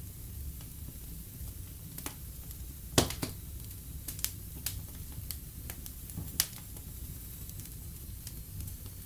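Wood fire burning in a fireplace: a low steady rumble of flames with scattered sharp crackles and pops of burning logs, the loudest about three seconds in and another a little after six seconds.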